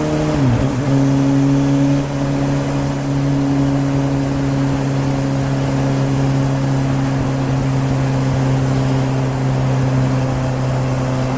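Suzuki GSR750 inline-four engine running through a Yoshimura aftermarket exhaust under way; its pitch drops once about half a second in, then holds steady at a constant engine speed.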